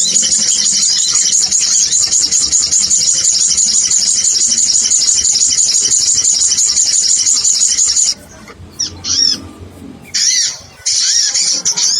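Rapid, high-pitched chattering of a small bird, the sogon (sunbird), played as a looped bird-lure recording. About eight seconds in, the chatter breaks into a few separate arched notes with short pauses, then resumes dense and continuous.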